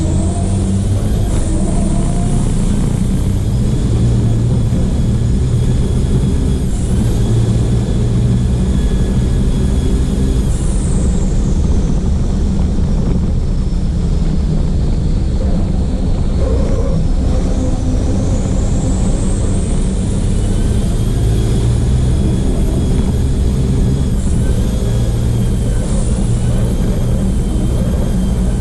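Racing truck's turbodiesel engine running hard on track, recorded onboard, with a steady low drone and a high whine that rises and falls slowly over several seconds as speed changes.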